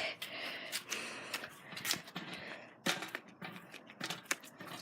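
Scattered light clicks and knocks with some rustling, irregularly spaced, from a bicycle being maneuvered through a tight gap.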